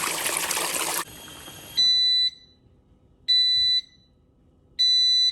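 Compact portable washing machine's tub churning water, which stops abruptly about a second in. The machine's beeper then sounds three short, high beeps about a second and a half apart, signalling that the wash cycle has ended.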